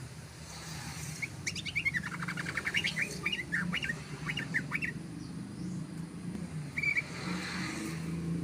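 Yellow-vented bulbul singing a fast, continuous run of short chattering notes for about four seconds, then one short note near the end, over a steady low hum.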